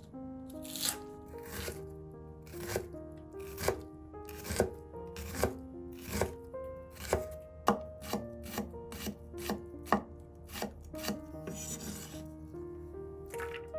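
Kitchen knife chopping vegetables on a cutting board, sharp strikes about one a second that quicken to about two a second partway through, with a short scrape near the end. Soft background music with held notes plays underneath.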